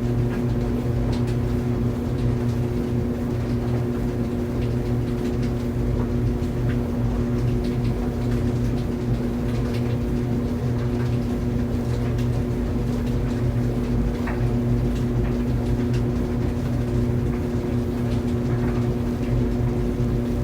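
Laundry dryer running: a steady motor and drum hum with a few faint, scattered ticks.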